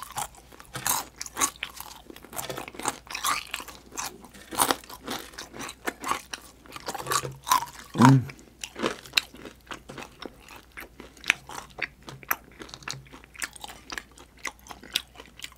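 Close-up crunching and chewing of crispy deep-fried chicken skin: many irregular crisp crunches, with a short low hum about eight seconds in.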